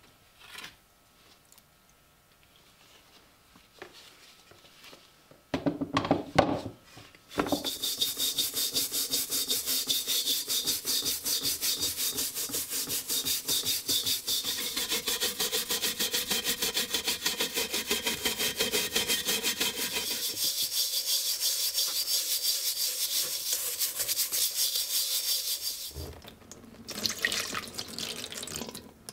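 A brush scrubbing rapidly back and forth over the rusty steel of an M40 helmet, several even strokes a second. It begins after a few handling knocks about six seconds in and stops near the end.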